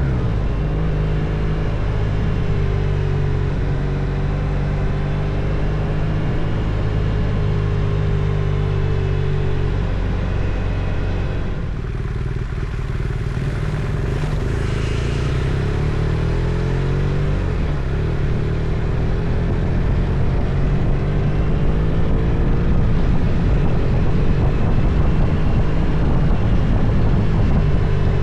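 Motorcycle engine running on the road, its pitch rising and falling with changes of speed. The engine eases off about twelve seconds in, then climbs again and grows a little louder.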